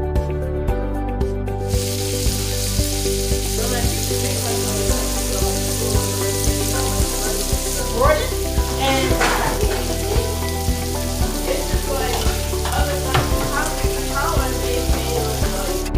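Food frying in a pan: a steady sizzle that starts about two seconds in, with stirring and scraping in the pan through the second half.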